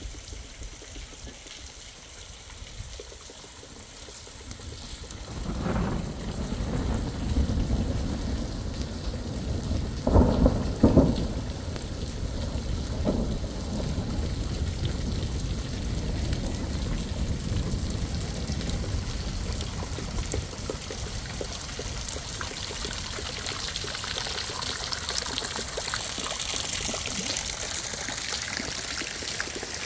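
Mountain rainstorm: steady rain falling, with deep rumbling that swells about five seconds in and peaks around ten to eleven seconds.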